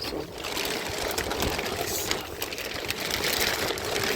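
Heavy rain pattering fast and dense on plastic sheeting, getting louder about half a second in.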